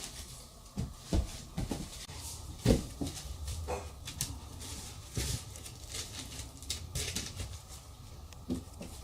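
Toys being handled: scattered light knocks and clicks at irregular intervals, with a few brief vocal sounds from a small child, the loudest about a third of the way in.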